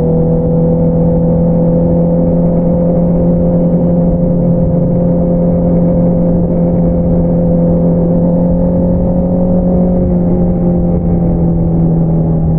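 Honda CBR650R inline-four running through an Akrapovič single-outlet exhaust at a steady engine speed, its pitch creeping up slightly and easing off about ten seconds in.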